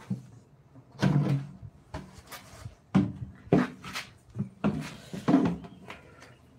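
A series of irregular hollow wooden knocks and clatters, about eight in all, spaced half a second to a second apart, as wooden pieces or tools are knocked and set down in a small room.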